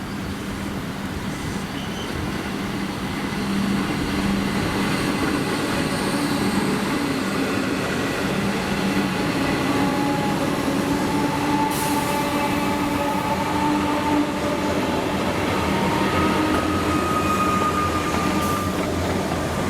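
Train running through the station: a loud, steady rail rumble that builds over the first few seconds, with a low hum and several whining tones that drift slightly higher in the second half.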